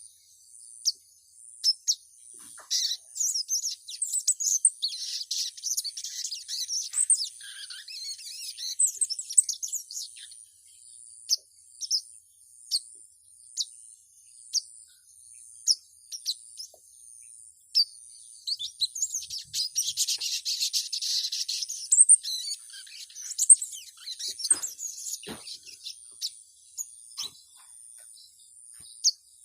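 Female crimson sunbird calling to a male: short, high-pitched chirps scattered through, with two spells of rapid chattering, one a few seconds in and a louder one about two-thirds of the way through.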